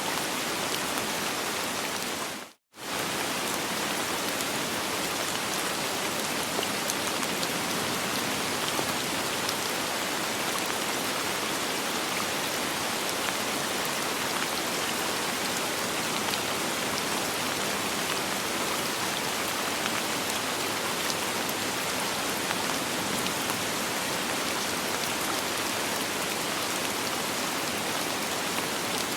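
Steady, dense rain pattering on a surface, with no thunder. The sound cuts out completely for a fraction of a second about two and a half seconds in, then resumes.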